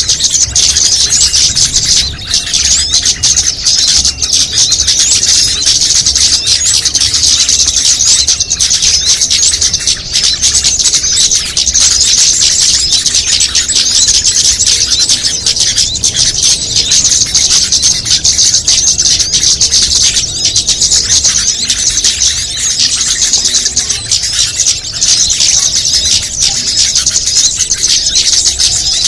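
Dense, continuous chorus of high-pitched small-bird chirps and twitters layered over one another without a break: a mixed-species bird-lure recording used to draw small birds in.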